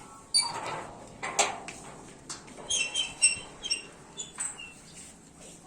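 A rapid series of short, high-pitched animal squeaks and chirps mixed with sharp clicks, starting just after the beginning and dying away about two-thirds of the way through.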